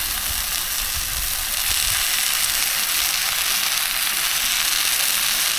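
Steady sizzling hiss of a pan of breaded cutlets, broccoli and gravy heating over a gas camp stove.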